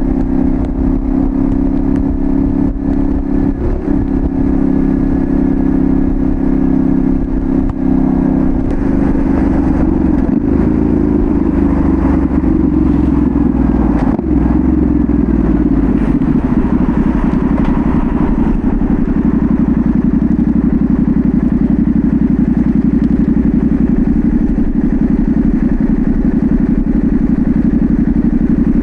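Yamaha Ténéré 700's 689 cc parallel-twin engine running through a full Dominator GP1 exhaust, heard from the rider's seat. The engine note drops through the middle of the stretch and then holds steady.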